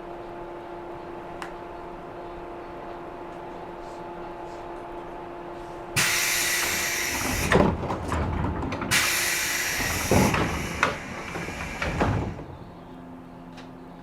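Inside a 113 series electric train: a steady hum, then about six seconds in a sudden loud rush of compressed air with knocks as the pneumatic sliding doors work, and a second air hiss a few seconds later ending in a thud, after which the hum settles lower.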